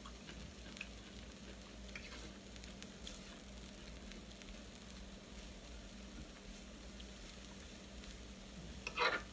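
Chicken sizzling on a hot grill: a faint, steady frying hiss with a few small clicks.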